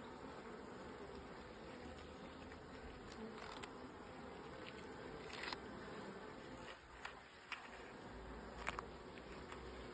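Honeybee colony humming steadily from an open hive. A few short clicks and knocks come through, the sharpest near the end.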